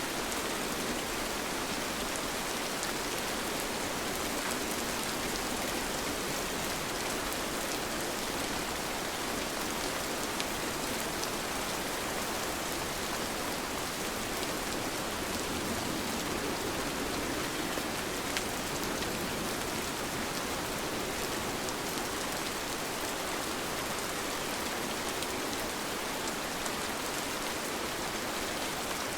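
Steady, even rain, with many small drop impacts ticking through it.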